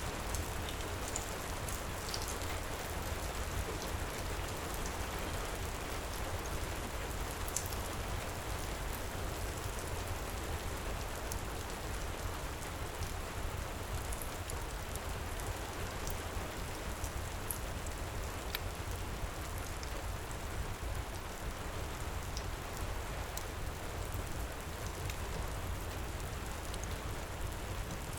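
Steady heavy rain pouring, mixed with scattered sharp pops and crackles from a wood fire in a fireplace.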